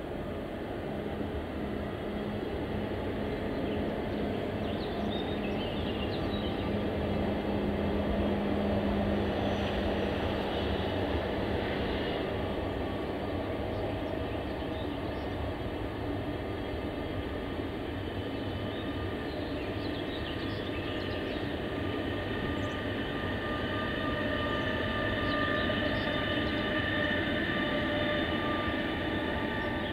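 Deutsche Bahn Intercity 2 double-deck train passing under electric traction: a steady rumble of wheels rolling on the rails. A low hum sounds in the first ten seconds, and a higher whine joins in the second half.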